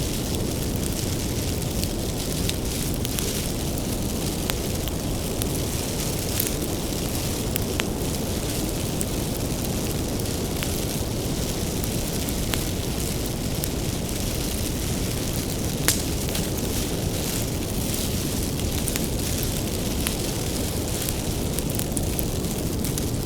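Wood bonfire burning with a steady low rumble and scattered crackles and pops from the firewood, one sharper pop about two-thirds of the way through.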